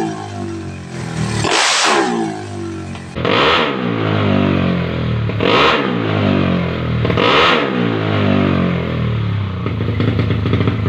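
Tuned 200cc automatic scooter engine revved in four quick throttle blips, each falling back to idle, then idling steadily.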